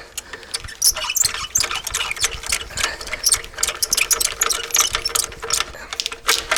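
Ratchet wrench clicking in rapid, irregular runs as a bolt is worked loose to release the belt tension.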